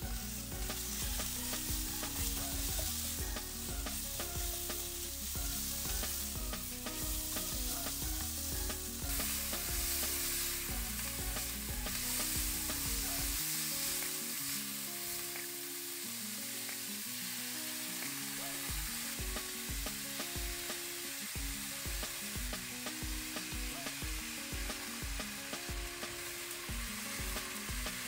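Diced pork sizzling steadily in hot oil and garlic in a nonstick wok as it is stir-fried with a silicone spatula. Quiet background music plays underneath.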